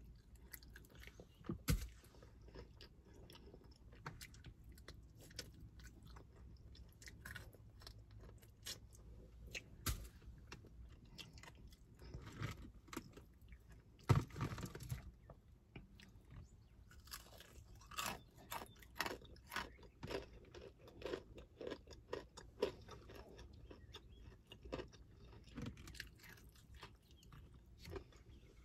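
Close-up chewing and crunching of crispy-breaded KFC fried chicken wings, with irregular sharp crunches throughout. About halfway through comes the loudest sound, a brief clatter as fingers pick at the plastic food tray.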